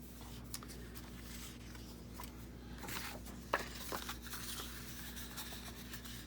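Paper being handled on a work surface: soft rustling with a few light taps and clicks, the sharpest about three and a half seconds in, over a faint steady hum.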